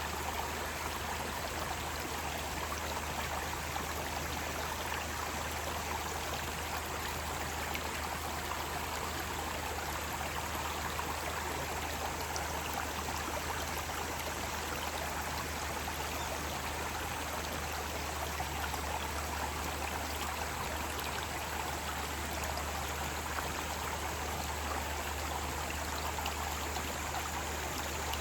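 Mountain stream flowing, a steady even rush of water with no breaks or separate splashes.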